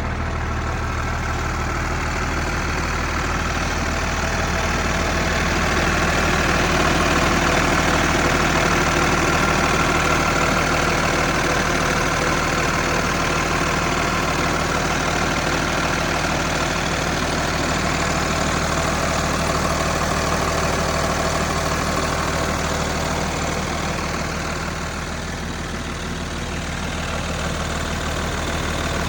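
Diesel truck engine idling steadily, a Cummins ISC inline-six in a Peterbilt 330, with a low, even hum and clatter.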